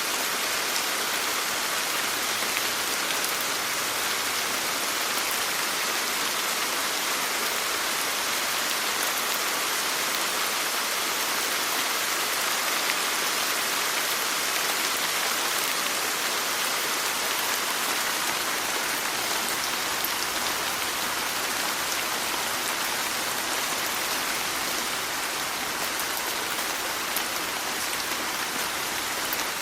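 Steady rain: an even hiss of falling rain with scattered fine drop ticks, unchanging throughout.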